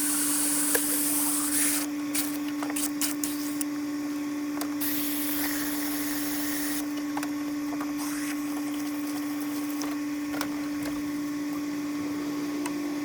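Steady one-pitched hum, like a small motor running, with two spells of hiss, one near the start and one about five seconds in, and scattered light clicks and knocks.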